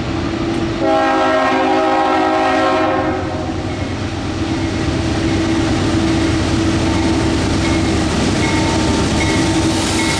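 Diesel freight locomotive's air horn sounding a chord for about two seconds, starting about a second in, over the steady running of the locomotives and the rumble of a heavy freight train working up a grade.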